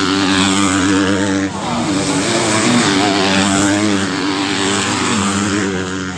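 Motocross bike engines revving, their pitch wavering up and down.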